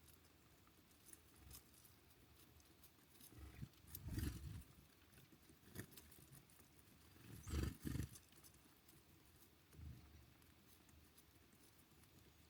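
Small birds at a bird feeder: soft thumps and pecking clicks come in two short clusters, about four seconds in and just before eight seconds, with a fainter bump near ten seconds, over near silence.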